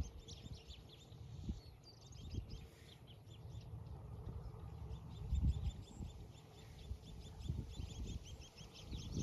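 Small birds chirping over and over in quick short notes, with scattered low thumps and rumble underneath.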